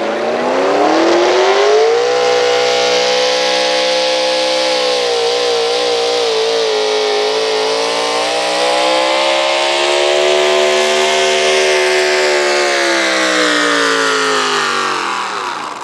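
Pro stock gas 4x4 pulling truck's engine at full throttle through a pull. The revs climb over the first two seconds, hold high and steady with a slight waver, then drop away near the end as the throttle comes off.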